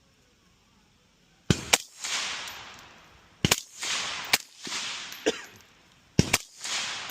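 Gunshots fired in quick pairs and singles, the first about a second and a half in after a quiet stretch, each followed by a long rolling echo.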